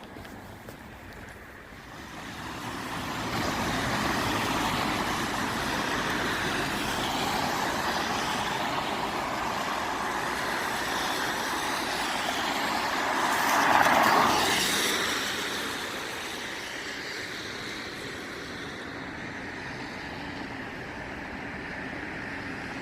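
A road vehicle passing, a steady rushing noise that builds over a couple of seconds, swells to its loudest about fourteen seconds in, then fades.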